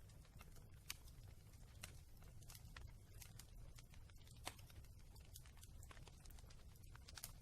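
Wood fire in a fireplace crackling faintly: scattered sharp pops and snaps at uneven intervals over a low steady rumble.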